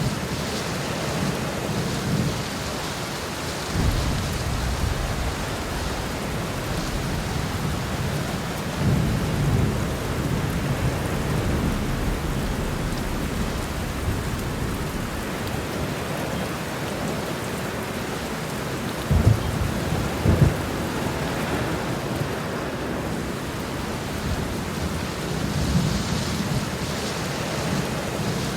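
Heavy rain falling steadily, with thunder rumbling several times. The loudest moments are two sharp thunder cracks, one after another, a little past the middle.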